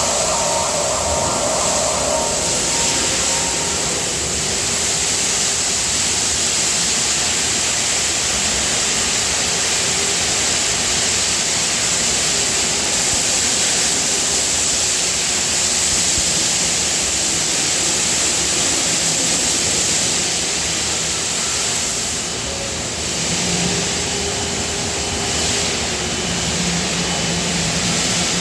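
Steady, loud hiss and rumble of factory machinery around a die casting machine, with a brief tone in the first couple of seconds and a low hum joining in near the end.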